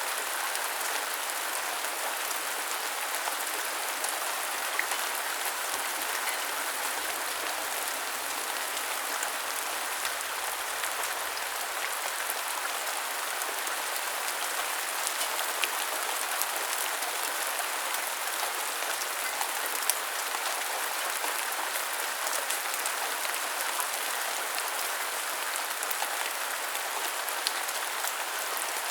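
Steady rain falling, an even hiss of drops with scattered sharper drop ticks standing out now and then.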